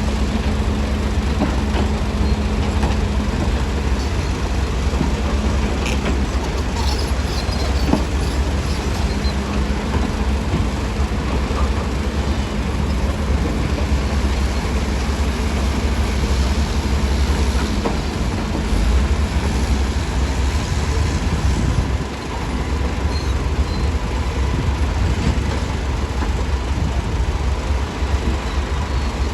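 Heavy earthmoving machinery's diesel engine running steadily, with a deep low rumble.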